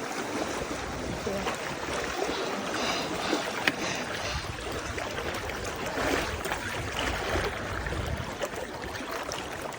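Steady rushing and splashing of water, like small waves lapping.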